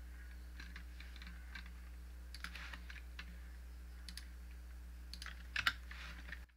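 Faint, irregular clicking at a computer mouse and keyboard, several clicks a second at times with pauses between, over a steady low electrical hum.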